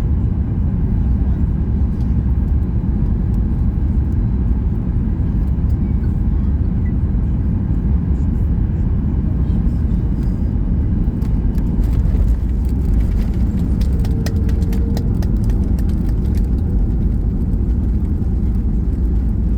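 Steady low rumble of cabin noise inside a Boeing 737 MAX 8 airliner, the engines and airflow heard from a passenger seat. A spell of faint light clicks comes in the second half.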